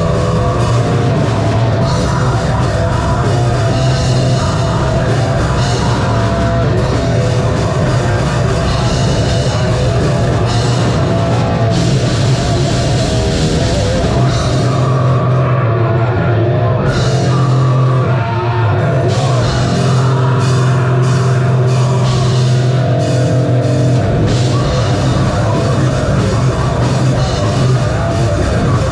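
Live metalcore band playing loud: distorted guitars, bass and a driving drum kit. The sound thins out for about two seconds around the middle, then the full band comes back in.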